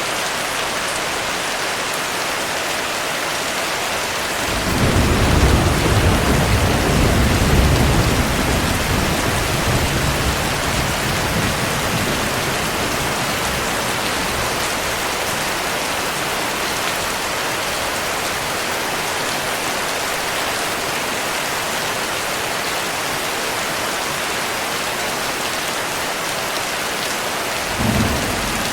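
Steady heavy rain, with a roll of thunder that begins about four seconds in and dies away over several seconds, and a short low rumble of thunder near the end.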